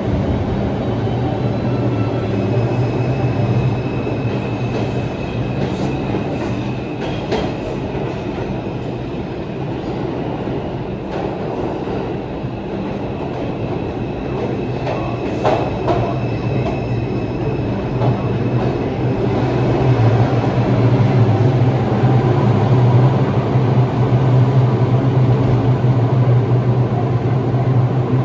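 NYC subway R142 train running through the station: a steady low electric hum, with scattered clacks of the wheels over rail joints. The hum grows louder about two-thirds of the way in.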